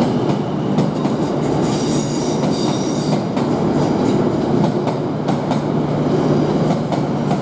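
Two coupled Class 444 Desiro electric multiple units running out of the station: a steady rumble with a low hum and the clatter of wheels over rail joints. A brief high squeal sounds about two seconds in.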